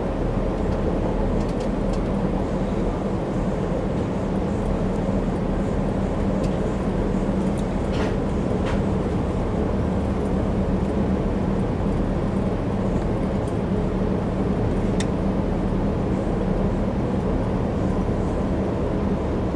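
Amtrak Empire Builder passenger train running, heard from aboard: a steady rumble of the moving car with a constant low hum. A few faint clicks come through, one about eight seconds in and one near fifteen seconds.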